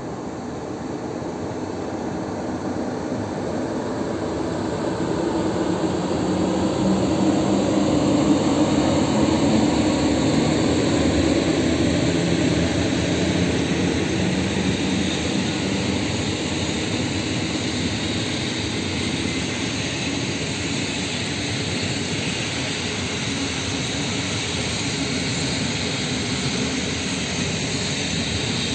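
Departing electric-hauled passenger train passing at low speed: the locomotive's motors and cooling blowers hum, growing louder over the first several seconds. The coaches then roll by on the rails with a steady, even noise of wheels on track.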